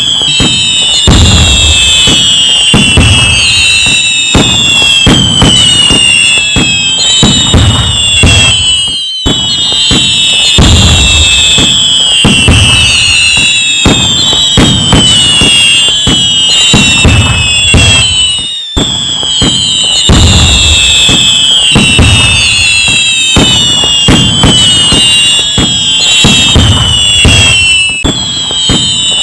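A dense fireworks barrage: rapid bangs and crackles under many overlapping whistles falling in pitch. The same stretch of recording repeats about every nine and a half seconds.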